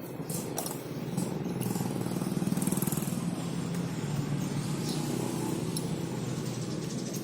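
A motorcycle engine running steadily, getting louder about a second in, with a few light clicks over it.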